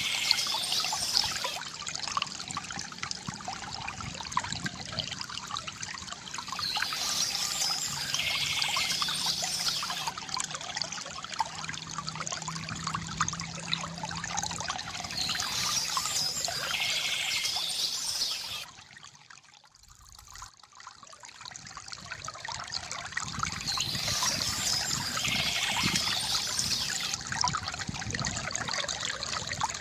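Water trickling and pouring steadily from a bamboo fountain, with bird chirps coming back every several seconds. The water fades almost away briefly past the middle, then rises again.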